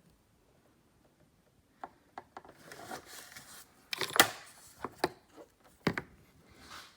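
Hands working in a car's engine bay around the lifted air box and a sensor connector: quiet at first, then scattered plastic clicks and rustling, with the loudest knock about four seconds in and another sharp click about six seconds in.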